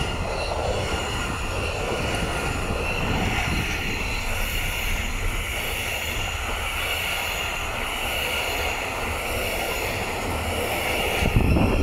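Container freight train rolling past: steady rumble of wagons on the rails with a continuous high whine, swelling briefly near the end.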